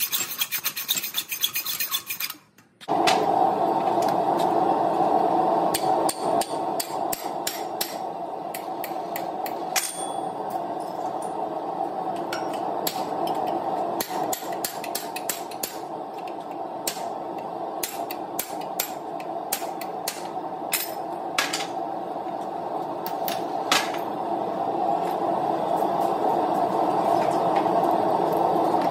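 Rapid back-and-forth filing on metal, which stops abruptly about two and a half seconds in. A steady whir follows, with scattered light clicks and taps over it.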